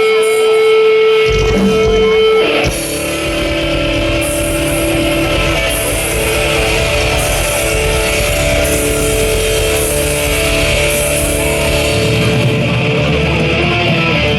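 Rock band playing live: a held electric guitar note rings out, then the drums and bass come in over the first couple of seconds and the full band plays on, with crash cymbals hitting every second or two.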